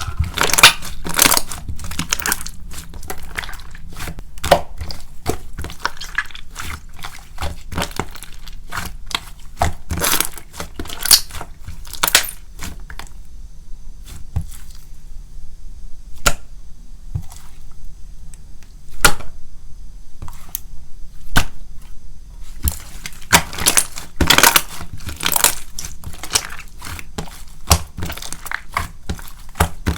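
Hands pressing and squishing a thick, chewy slime with instant snow mixed in, giving irregular crackling pops and clicks of air bubbles, with a couple of quieter stretches around the middle. The instant snow partly dulls the bubble pops.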